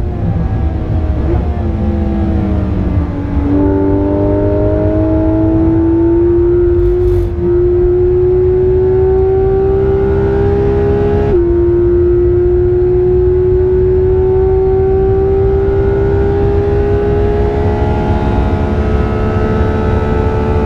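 Porsche 991.2 GT3 RS's 4.0-litre naturally aspirated flat-six under hard driving, heard from inside the cabin. The engine note falls over the first few seconds as the car slows, then climbs steadily, drops sharply at an upshift a little past halfway, and climbs again, over a steady low road rumble.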